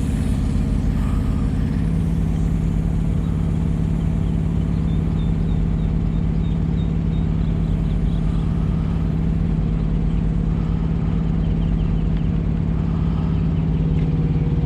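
Semi truck's diesel engine idling steadily, with a steady low hum growing stronger about two seconds in. It is idling to warm up so the thermostat opens, with the cooling system low on coolant and, the owner suspects, holding air.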